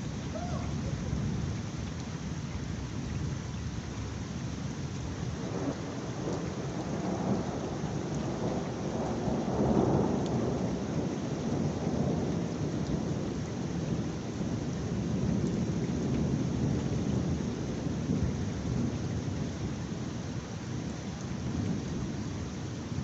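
Heavy rain falling steadily, with a long roll of thunder that builds from about six seconds in, is loudest around ten seconds, then rumbles away.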